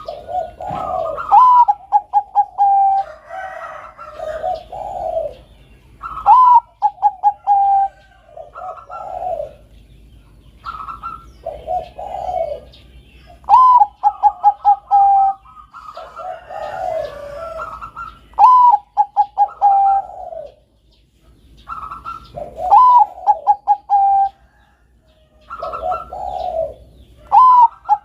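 Zebra dove (Bangkok-type perkutut) cooing in repeated phrases, one every four to five seconds. Each phrase is a rising note, a quick run of short clipped notes, and a lower drawn-out coo.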